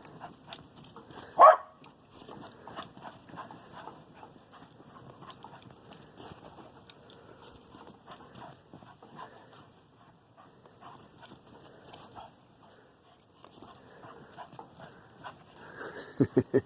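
Dog bounding through deep snow, its steps making a faint, continuous crunching, with one short bark about a second and a half in.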